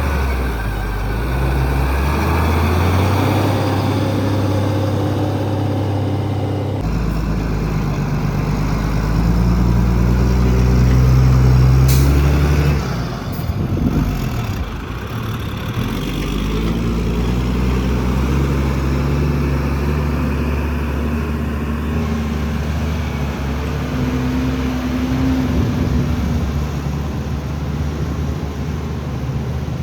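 Heavy diesel engines of an excavator and dump trucks running, the engine note rising and falling as they work, with a brief knock about twelve seconds in.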